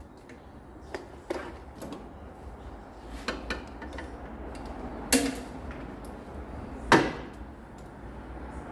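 Scattered clicks and clinks of metal tools and parts being handled, with two louder sharp knocks about five and seven seconds in.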